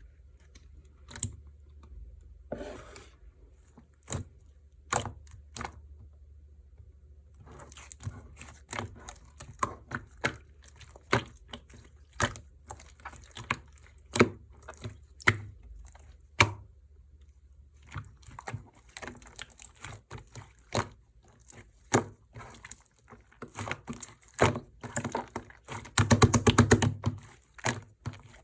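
Clear glitter slime being squished, poked and folded by hand, giving a string of sharp clicks and pops from trapped air. Near the end comes a fast run of crackling pops.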